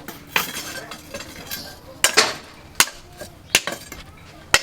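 Hammer striking steel in irregular blows, about six sharp metallic clanks with brief ringing after some of them.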